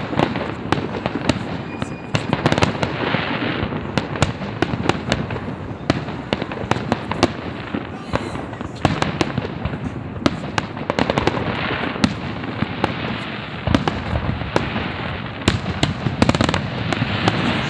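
Fireworks display: many sharp bangs of bursting shells in quick, irregular succession over continuous crackling.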